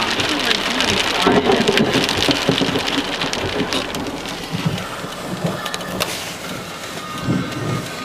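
Heavy thunderstorm rain pouring down with many sharp drop hits, and thunder rumbling. The downpour eases a little after the first few seconds.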